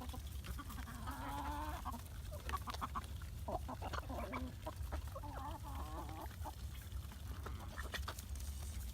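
A farmyard flock of chickens and ducks calling as they feed, with a couple of wavering calls about a second in and again mid-way, and scattered short clicks. A steady low rumble runs underneath.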